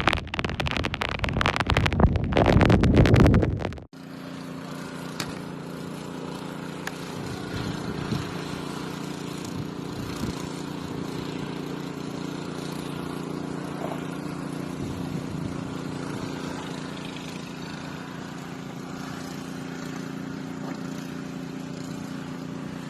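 Wind buffeting the microphone in loud gusts, then a sudden cut about four seconds in to a vehicle driving, its engine and road noise a steady, even hum.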